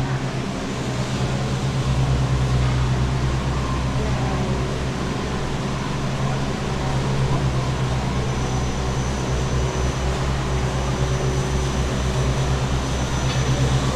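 Steady machine hum with a low drone and an even rushing noise underneath, holding level throughout; a faint high whine joins about eight seconds in.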